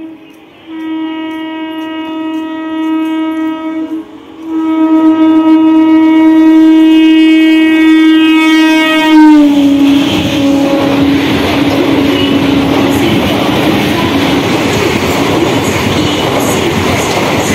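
Kolkata suburban electric local train sounding its horn in three long blasts as it approaches, the pitch dropping about nine seconds in as it reaches and passes; then the train runs through at speed, a loud steady rush with wheels clattering over the rail joints.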